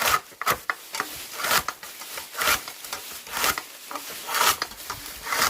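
Rhythmic rubbing or rasping strokes, a strong stroke about once a second with lighter ones in between.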